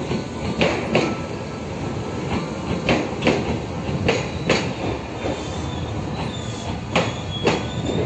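Train departing at low speed, cars rolling past close by: a steady rumble with a series of sharp clacks as the wheels cross the rail joints, and a faint high wheel squeal in the later part.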